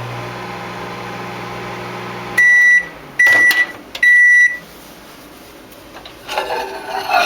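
Microwave oven running with a steady hum that stops about two and a half seconds in, followed by three loud beeps signalling the end of the cooking cycle. A brief irregular handling noise follows near the end.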